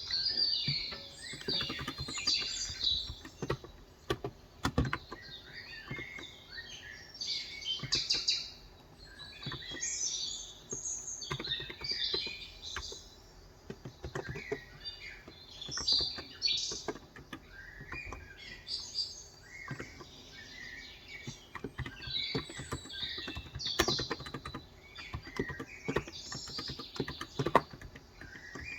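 Birds chirping and twittering continuously over irregular typing clicks from a COX Endeavor 35g electrostatic capacitive (contactless) tenkeyless keyboard.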